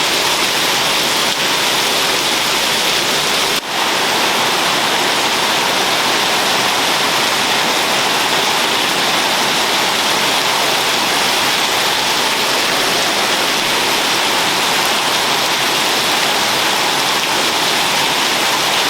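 Heavy tropical downpour: a steady, loud hiss of rain, dipping briefly once about three and a half seconds in.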